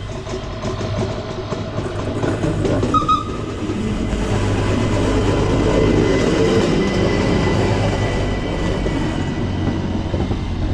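Cog railway train, a rack-and-pinion train, running along the track with a steady low hum and a rumble of wheels. The rumble swells to its loudest a few seconds in.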